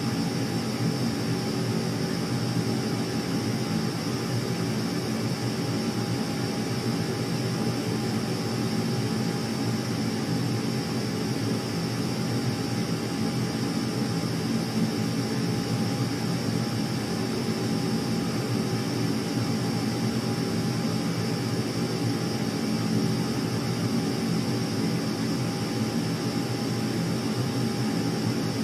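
Steady engine drone with a constant low hum and no change in pitch or loudness, as from a running aircraft engine.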